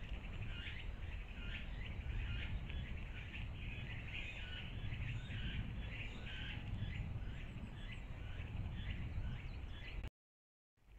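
Bird chirping repeatedly, short calls about two or three a second, over a steady low rumble. The sound cuts out suddenly near the end.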